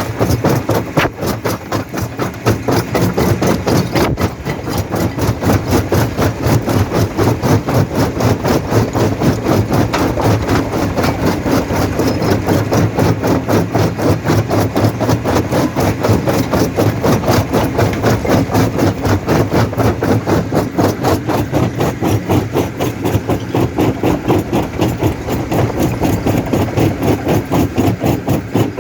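Jaw rock crusher running, with a steady, fast pounding rhythm of about three to four beats a second.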